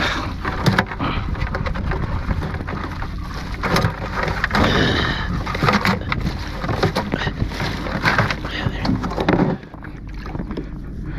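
Water splashing and dripping, with repeated short knocks, as a crab trotline is pulled up and run from a kayak, over a low rumble of wind on the microphone.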